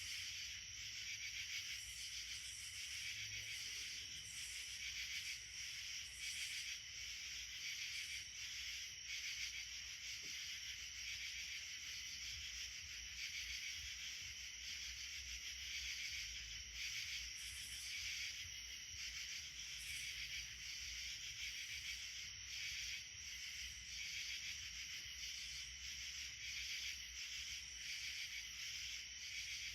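Steady chorus of insects: a dense, high-pitched buzzing with a fine rapid pulse that keeps on without a break.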